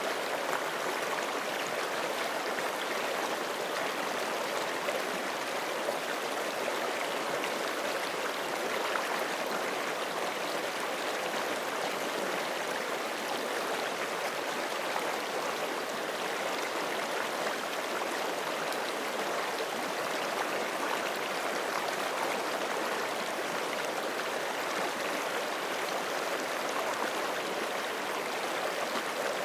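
Forest stream flowing steadily over rocks, a continuous even rush of water with light gurgling.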